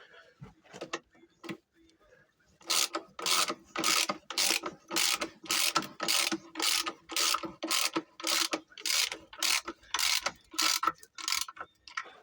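Ratchet wrench being worked in quick even strokes, about two a second, starting a few seconds in after some scattered clicks.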